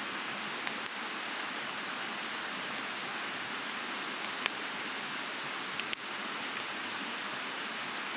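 A river's fast-flowing water rushing steadily, with a few short sharp clicks now and then.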